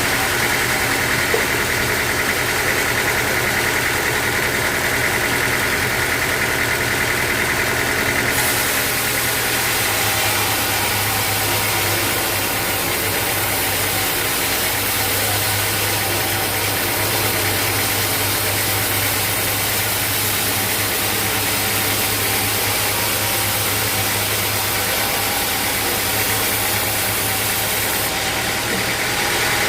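Sawmill machinery running steadily with an engine-like hum. About eight seconds in the sound shifts: a higher hiss is added and the low hum changes pitch.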